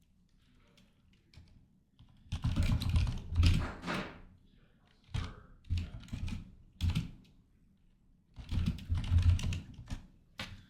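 Typing on a computer keyboard in three bursts of quick keystrokes with short pauses between them, the key strikes thudding on the desk.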